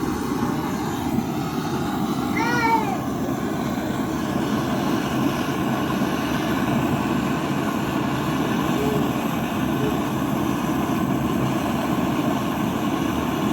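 A steady low mechanical rumble, with one short rise-and-fall call like a cat's meow about two and a half seconds in.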